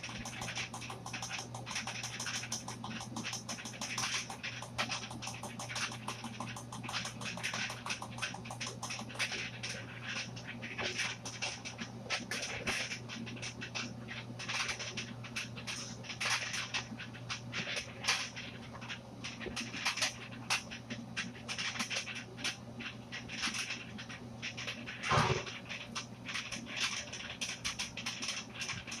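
Hand tools scraping and tapping on concrete in a dense, irregular run of short scrapes and clicks over a steady low hum, with one brief pitched sound about 25 seconds in.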